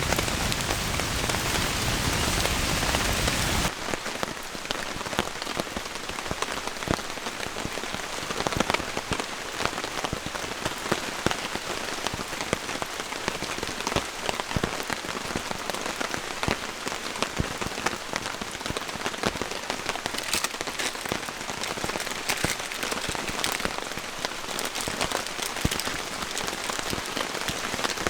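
Steady heavy rain falling, with many distinct drop hits throughout. About four seconds in the sound changes abruptly and loses its deep part.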